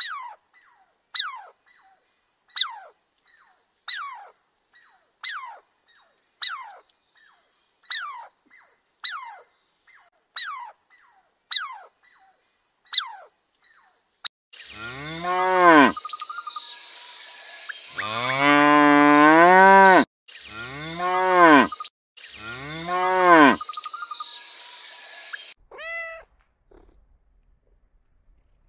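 Animal calls: about ten short falling chirps evenly spaced over the first half, then several long calls that rise and fall in pitch over a steady high hiss, and a short falling call near the end.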